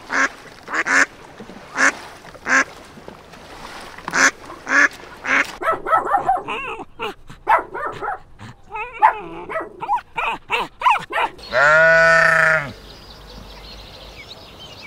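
Domestic geese honking repeatedly, then a run of shorter, quicker animal calls, then a sheep's single long bleat about twelve seconds in.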